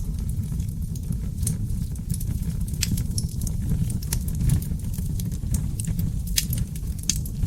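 Wood fire of seasoned oak logs burning in a fireplace: a steady low rumble of flames with frequent irregular crackles and pops.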